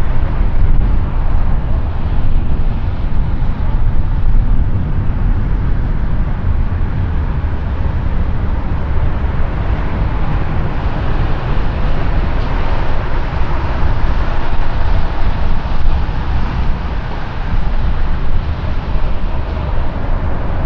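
Jet airliner engines: a loud, steady rumble, heaviest in the low end.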